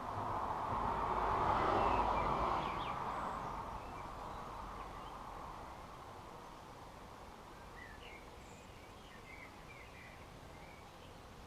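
A broad rushing noise swells to a peak about two seconds in and fades away by about four seconds. Later, small garden birds give several short chirps near the end.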